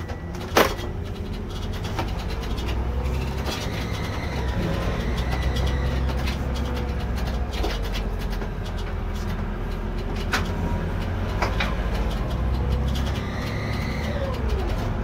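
Irisbus Récréo II coach running, heard from the driver's seat: a steady low engine and drivetrain rumble that swells and eases. A single loud knock comes about half a second in, with a few lighter clicks and rattles later on.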